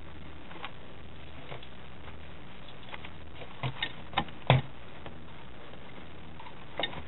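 Rain pattering: a faint steady hiss with scattered light ticks, and a few sharper clicks about halfway through and again near the end.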